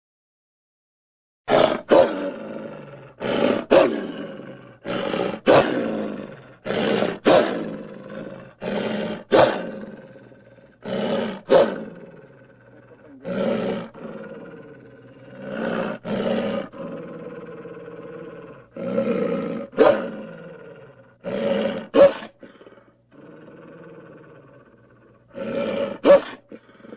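Edited hamster sound effects: a rapid string of short, processed animal calls, each starting abruptly as if cut in, with a brief quieter gap near the end.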